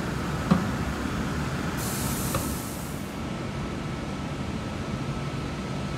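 Station ambience around the standing Indian Pacific train: a steady low hum, a sharp click about half a second in, and a brief high hiss of air from about two to three seconds in.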